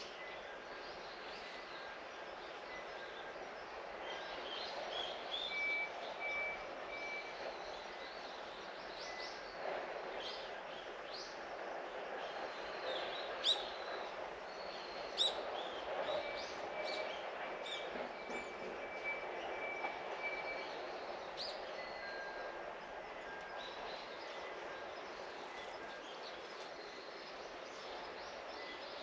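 Birds chirping on and off over a steady background hiss of distant noise, with two sharp chirps standing out about halfway through.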